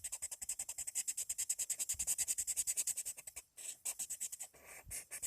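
Coloured pencil shading rapidly back and forth on paper, about ten scratchy strokes a second. It stops briefly a little past halfway, then a few more strokes, then the strokes start again near the end.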